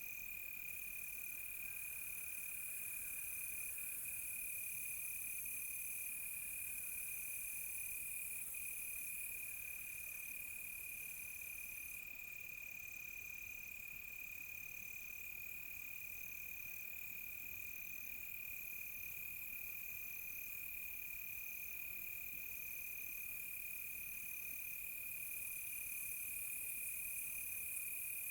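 Night crickets: one cricket holds a continuous steady high trill while another chirps in a slow even rhythm about once a second, over a steady high hiss of insects.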